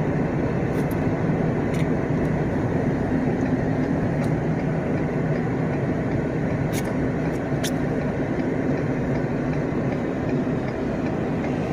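Steady engine and road noise heard inside the cabin of a moving 2015 all-wheel-drive Ford Sedan Interceptor with a twin-turbo 3.5-litre EcoBoost engine, cruising at an even pace, with a few faint clicks.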